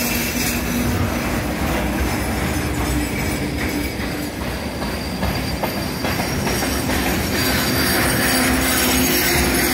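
Freight train wagons, boxcars and tank cars, rolling past close by: a loud, continuous rumble and clatter of steel wheels on the rails with a steady hum running through it, growing a little louder in the last few seconds.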